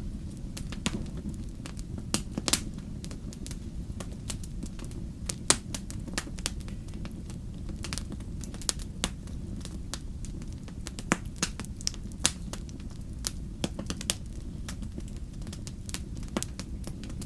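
Wood fire crackling in a fireplace: a steady low rumble of flames under many sharp, irregular pops and snaps, the loudest about two and a half and five and a half seconds in.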